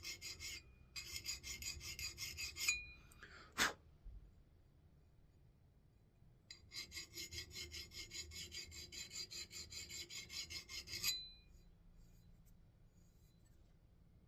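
Quick rhythmic strokes of a hand sharpening tool rasping along the thin bit of an axe head, lightly touching up the edge. There are two short runs of strokes at the start, a single sharp knock a few seconds in, then a longer run of strokes that stops about three seconds before the end.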